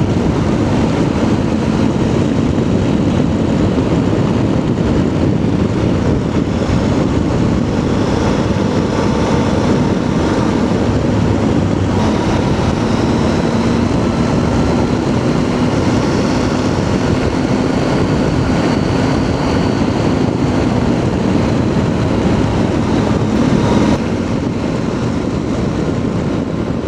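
Triumph Tiger 800's three-cylinder engine running steadily at highway speed under heavy wind rush, with a faint steady engine note; the level drops slightly near the end.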